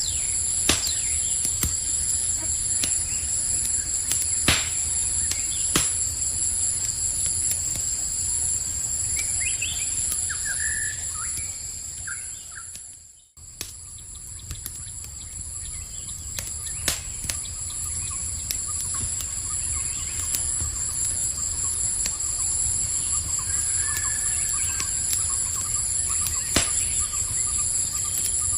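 Campfire crackling with scattered sharp pops over a low steady rumble, against a steady high chorus of crickets, with a few short bird chirps. The whole ambience fades down to near silence about halfway through and swells straight back up.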